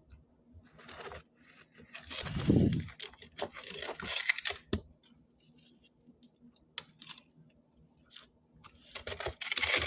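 Frost crunching in bouts: two loud rough bursts a few seconds in, scattered small crackles, and another burst near the end.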